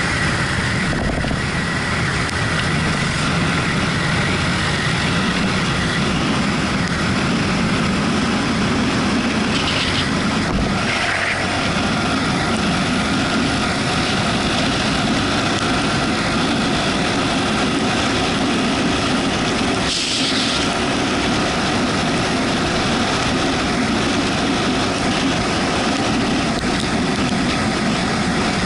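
Yamaha MT-125's single-cylinder engine running steadily on the move, under a continuous haze of wind and road noise, with brief louder hisses about ten and twenty seconds in.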